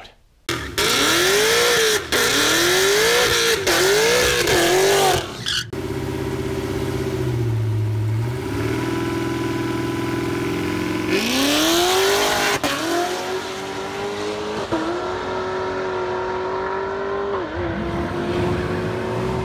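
Supercharged sixth-generation Camaro V8 revved up and down several times, then running lower and steadier before launching hard about eleven seconds in. It pulls away down the drag strip, its pitch climbing steadily with two brief dips at the shifts.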